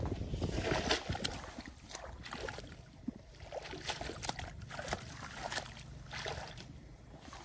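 Irregular splashing and sloshing of shallow muddy water as hands grope through a flooded rice field for fish, over a low rumble.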